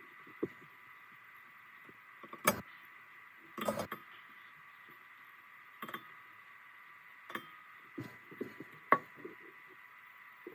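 Scattered metallic clinks and taps of hand tools and bolts being handled during work on the car's transmission, with the sharpest clinks about two and a half and nine seconds in. A faint steady high tone hums underneath.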